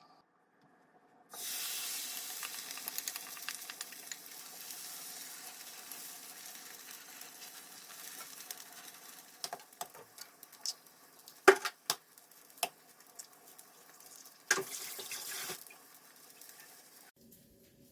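Water running from a kitchen tap into the sink, switched on suddenly and off abruptly near the end, with a few sharp knocks of dishes or utensils and a louder splash partway through.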